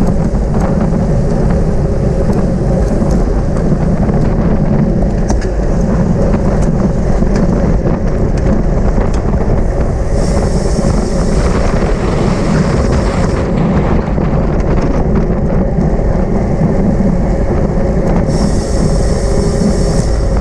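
Wind buffeting the microphone of a camera carried on a racing bicycle at speed, a steady low rumble mixed with tyre and road noise.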